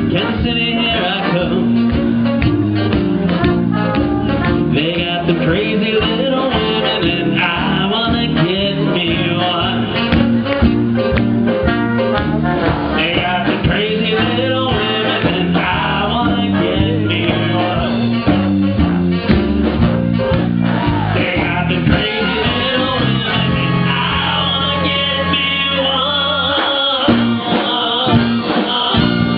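Live band playing a blues number with guitar to the fore. Near the end the band holds a chord, breaks off briefly and comes back in.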